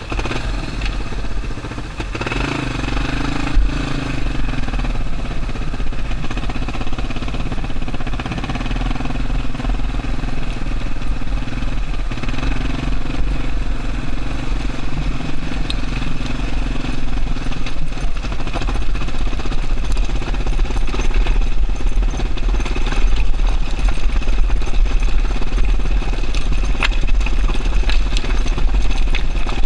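Yamaha Serow XT225's air-cooled single-cylinder four-stroke engine running steadily as the motorcycle is ridden, getting somewhat louder in the second half.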